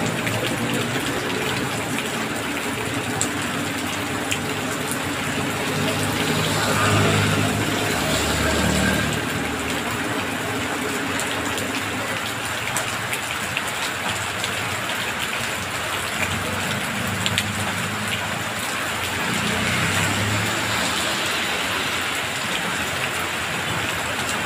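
Heavy rain pouring steadily onto a wet road and a parked car. Twice, about a quarter of the way in and again later, it swells with the hum and tyre hiss of traffic going past through the water.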